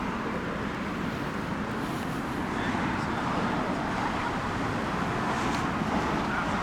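Steady road traffic noise, an even hiss of passing cars.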